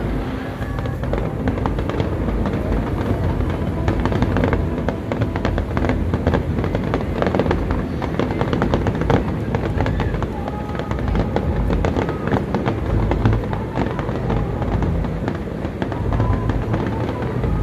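Fireworks display: a continuous run of bangs and crackles, with music playing underneath.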